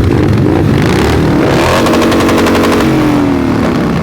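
Pit bike engine revving loud and close, the pitch climbing about midway and dropping back near the end, with a rapid popping rattle.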